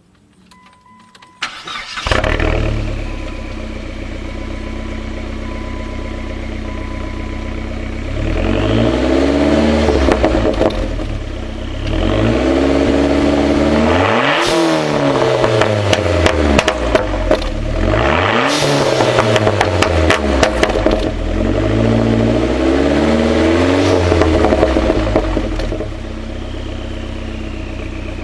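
Chrysler PT Cruiser GT's turbocharged 2.4-litre four-cylinder started about two seconds in, settling to a steady idle through a 2.5-inch Borla/Mopar stainless cat-back exhaust. It is then revved five times, rising and falling, the two highest revs near the middle, before dropping back to idle near the end.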